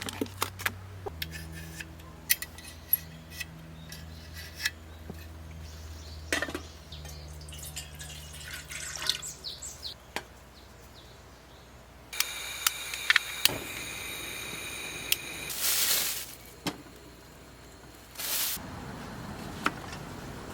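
Dishes and utensils being handled, with light clinks and knocks scattered through the first half. Two short hissing bursts come later, the first about 15 seconds in and the second near the end.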